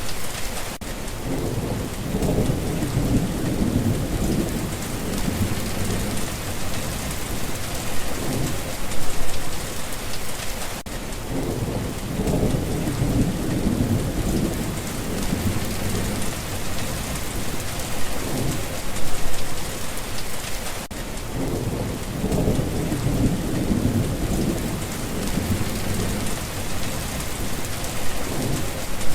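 Steady rain with low rolling thunder; the rumble swells and fades three times, about every ten seconds.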